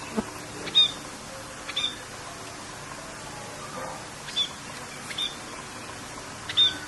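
Birds giving about five short, high chirps, spaced a second or so apart, over a steady hiss of rain.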